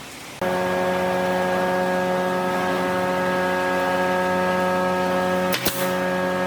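A steady electric motor hum that starts abruptly about half a second in and holds an even pitch, with one sharp click near the end.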